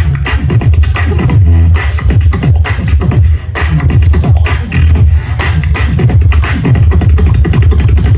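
Live beatboxing: a loud, fast, steady hip-hop beat of kick, snare and hi-hat sounds made with the mouth.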